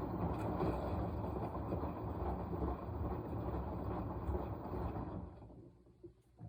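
Washing machine drum turning in a wash cycle, tumbling the wet load for about five seconds before winding down to a stop, with a single knock near the end.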